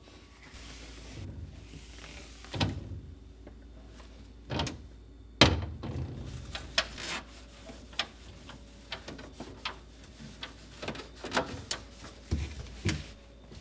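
Kitchen items being handled and set down: a scattering of knocks and clicks, the loudest a heavy thud about five and a half seconds in, followed by a busy run of lighter clicks and taps.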